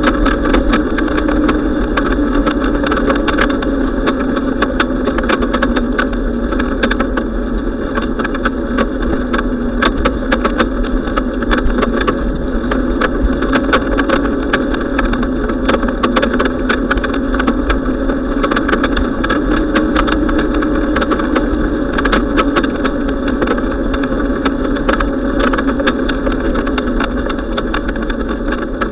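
Steady rushing noise from a moving bicycle, with wind on the microphone and road noise, and many sharp clicks and rattles all through.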